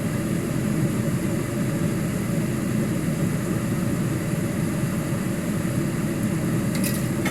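A steady, unbroken low rumble from a running machine, with no distinct knocks or clicks.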